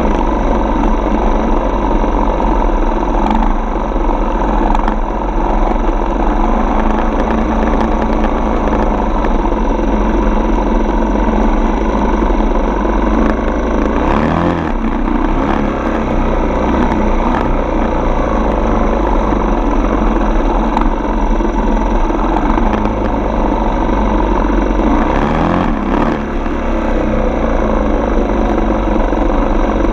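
Single-cylinder four-stroke dirt bike engine running steadily while being ridden. Twice, about halfway through and again later, it eases off briefly and picks back up.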